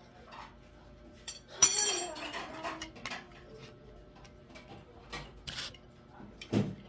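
Metal objects being handled and clinking together. A sharp ringing clink comes about a second and a half in, followed by a second of rattling, then a few light clicks and a heavier thump near the end.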